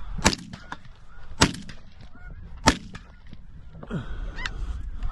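Three shotgun shots about a second and a quarter apart, the loudest sounds here, over the continual honking of a flock of snow geese.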